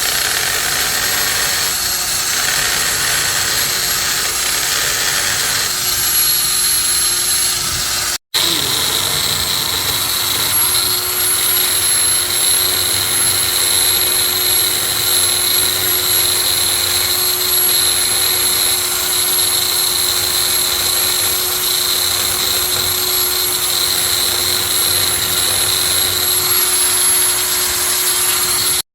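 Handheld stone polisher running steadily with a diamond polishing pad worked along the cut edge of a granite countertop: a high, steady whine over a grinding hiss. The sound cuts out for an instant about eight seconds in and resumes.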